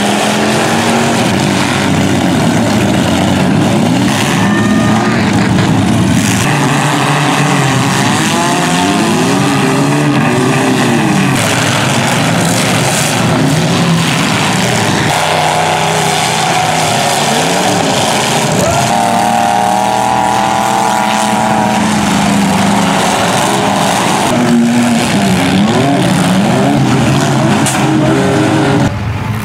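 Several demolition derby cars' engines revving hard together, their pitch repeatedly climbing and falling as the cars rev, ram and back off.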